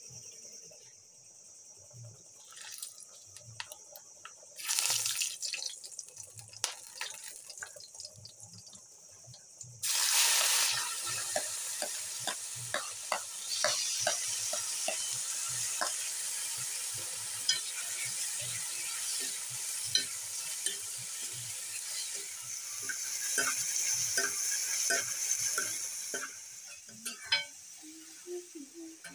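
Chopped onions tipped into hot oil in a kadai about ten seconds in, setting off a loud, steady sizzle, with a steel spoon clinking and scraping against the pan and plate as the food is stirred. A short burst of sizzling comes about five seconds in, and the frying eases off near the end.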